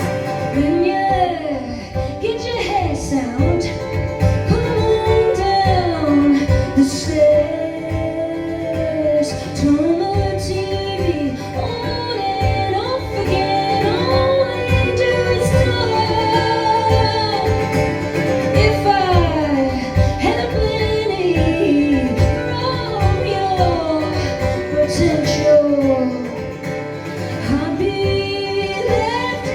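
Live band music with a woman singing in long, gliding vocal lines.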